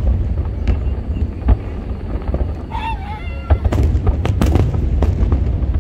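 Aerial fireworks going off: a continuous low rumble of booms with sharp bangs, coming thickest over a second or so past the middle. A brief high-pitched wavering call cuts through about three seconds in.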